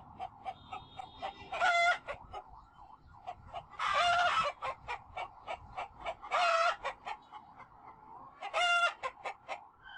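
Chickens clucking continually, with four louder, longer calls spaced about two seconds apart.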